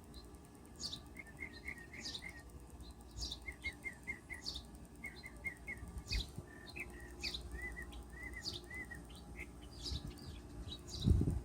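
Pet bird chirping over and over: short high chirps about once a second, with runs of quicker, lower chirps in between. A dull thump near the end is the loudest sound.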